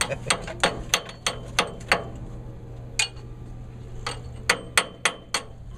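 Hammer striking a fresh weld on a steel hydraulic pipe to chip off slag: sharp metal taps, about three a second for two seconds, then one strike, then four more near the end.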